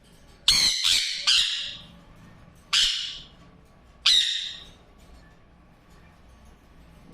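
Parrot squawking in loud, harsh calls: three in quick succession, then two single squawks about a second and a half apart.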